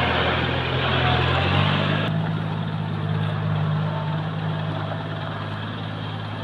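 Engine running steadily, its pitch stepping up about a second and a half in, over a rushing noise that eases off about two seconds in.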